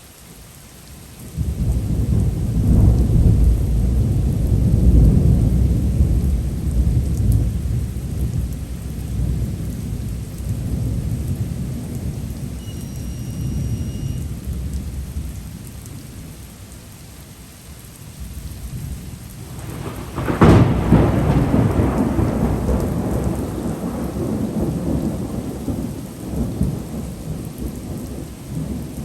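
Thunder over steady heavy typhoon rain: a long low rolling rumble starts a second or so in and slowly fades, then a second, sharper crack of thunder about two-thirds through, rumbling away toward the end.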